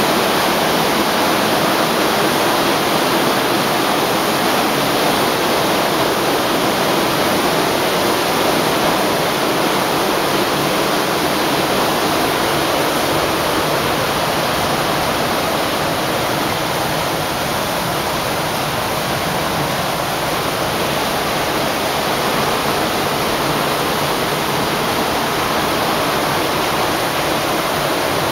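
Heavy rain falling, a loud steady rush of water with no separate drops or breaks.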